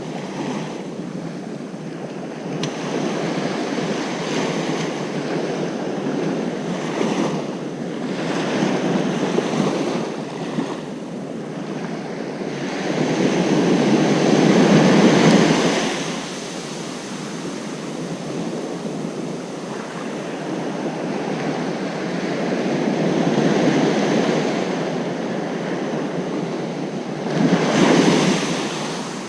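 Ocean surf breaking on a beach: a steady wash of waves with swells of loudness as sets come in, the biggest about halfway through and another shortly before the end.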